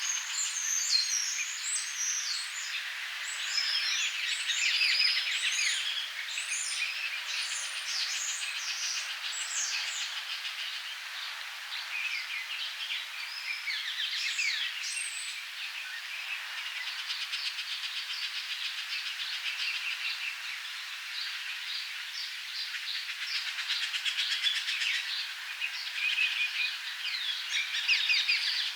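Several songbirds at a feeder chirping and calling, many short high notes overlapping throughout, over a steady background hiss.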